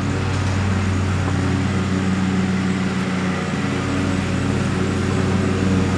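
A vehicle engine running steadily: a low, even hum with no change in pitch.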